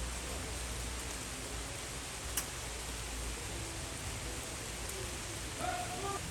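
Steady rain falling, an even hiss, with one sharp tick of a drop striking something about a third of the way in.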